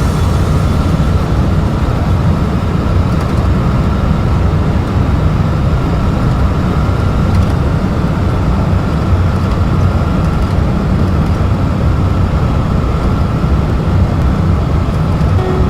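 Steady, loud rush of airflow and engine noise inside an Airbus A319 cockpit during approach, with a faint steady high tone running through it.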